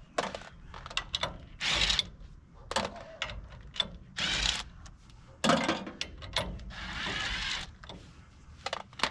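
Hand tools and metal wheel parts being worked on a pickup's wheel hub and brake drum: an irregular series of metallic clicks, clanks and short scraping bursts, some under a second long.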